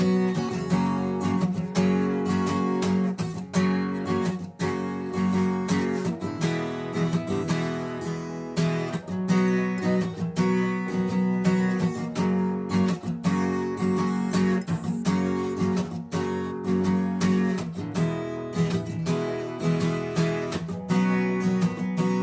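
Acoustic guitar strummed steadily, chord after chord, with no singing.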